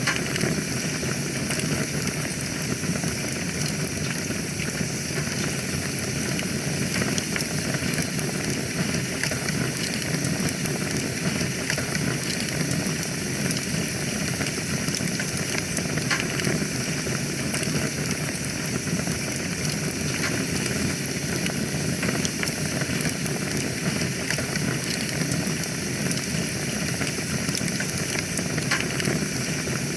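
Wood fire burning in a fireplace: a steady hiss with frequent small crackles and pops.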